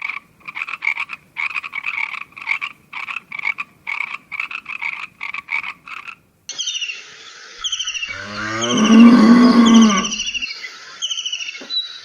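Rapid croaking calls, many short pulses a second, for about six seconds. Then repeated high falling chirps start, and under them a cow gives one long, loud moo.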